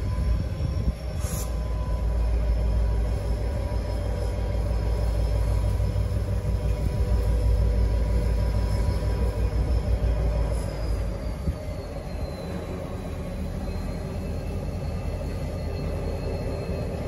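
Aurizon freight locomotive moving slowly through the crossing, its deep rumble easing about twelve seconds in. Thin, steady, high-pitched wheel squeal lasts throughout and slides slightly lower in pitch near the end. There is a single clank about a second in.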